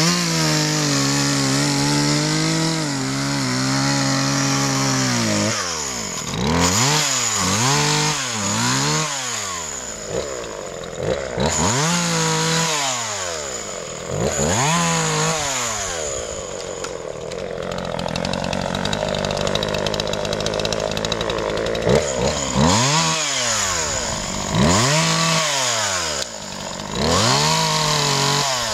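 Gas chainsaw cutting firewood. The engine holds a steady high speed for about five seconds, then repeatedly drops toward idle and revs back up between cuts.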